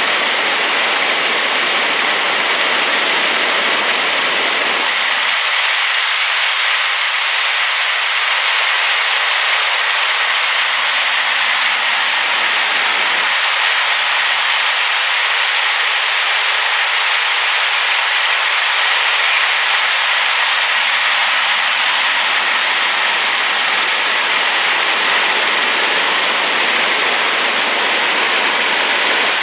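Waterfall in spate after rain, a steady, loud rush of falling water like white noise.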